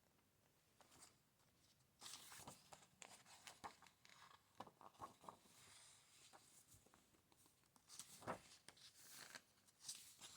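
Faint rustling and soft clicks of book pages being turned and handled, in short scattered bursts with a louder flick about eight seconds in.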